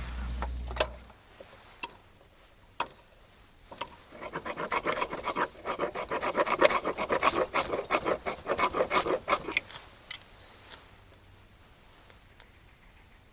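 A few separate clicks, then from about four seconds in a rapid run of rasping, scraping strokes for roughly five seconds, with a couple more clicks after it stops.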